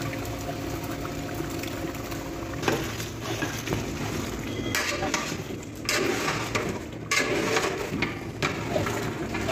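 Ground boiled onion, ginger and garlic paste poured into a large pot of chicken frying in hot oil, bubbling and sizzling as it hits. From about three seconds in, a long metal spatula scrapes and knocks against the pot as the mixture is stirred.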